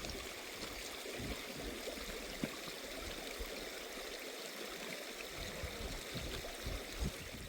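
Steady sound of running water, a small stream flowing, with a few faint clicks.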